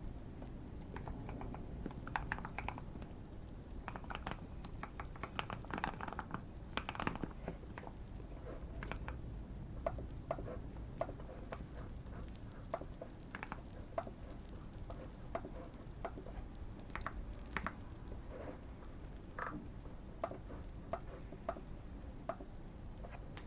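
Typing on a modded Keychron Q1 mechanical keyboard with Fierce Girl switches: irregular runs of deep keystrokes, in quick flurries early on and more spaced presses later. Light crackling of a fire runs underneath.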